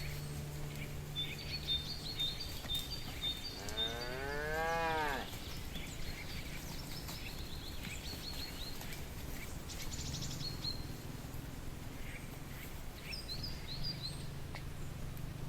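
A cow moos once, one call of about a second and a half that rises and then falls in pitch.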